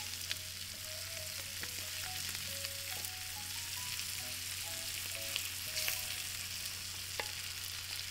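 Crispy pork sisig sizzling on a hot metal sizzling plate in melted margarine, a steady hiss, with a few light clicks and scrapes as a wooden spatula pushes more of it off the pan onto the plate.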